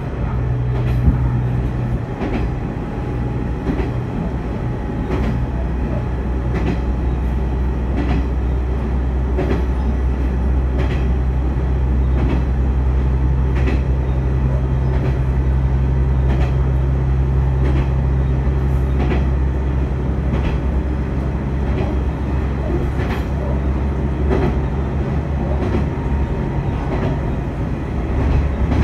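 Noto Railway diesel railcar running along the track: a steady low engine drone with wheel clicks over the rail joints about every second and a half.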